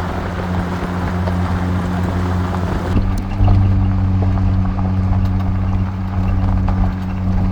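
Steady low drone of a running engine with an even hum and rushing noise, growing louder with a slight shift in tone about three seconds in.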